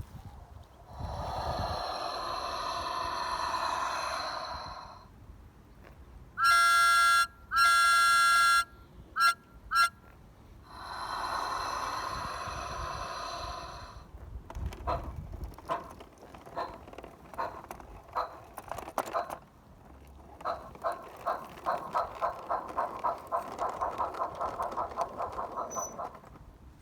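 Steam-locomotive sound effects from the DCC sound decoder in a Thomas the Tank Engine garden-railway model: a few seconds of steam hiss, two long whistle blasts followed by two short toots, a second hiss, then steam chuffs that start slowly and quicken as the engine gets under way.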